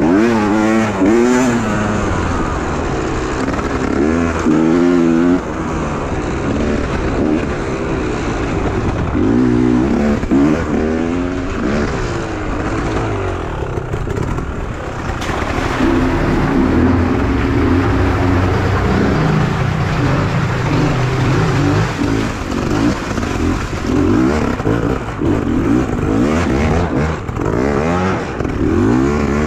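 Enduro dirt bike engine revving, its pitch rising and falling again and again with the throttle and gear changes.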